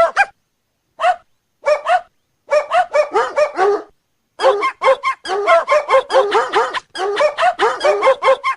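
A dog barking over and over in quick runs of about four barks a second, with short pauses between the runs.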